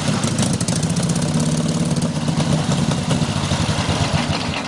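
Vintage sidecar motorcycle's engine idling steadily, with a fast, even pulse.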